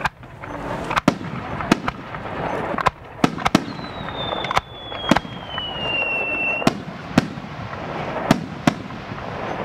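Aerial firework shells launching and bursting: about a dozen sharp bangs at uneven intervals, with crackling and rumbling echoes between them. A long whistle falling slowly in pitch runs through the middle.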